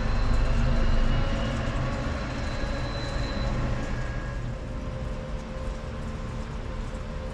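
A train's low rumble fading away as it moves off, loudest at the start and dying down over the first few seconds into a quieter steady background.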